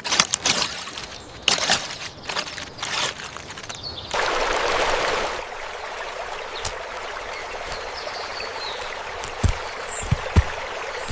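Water splashing and trickling, with a brief rush of pouring water about four seconds in, then settling into a steady stream.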